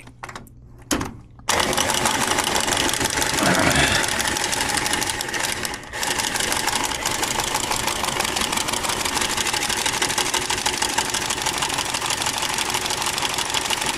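A power saw starts about a second and a half in and runs steadily, cutting through a pipe that may hold water, with a brief let-up near the middle.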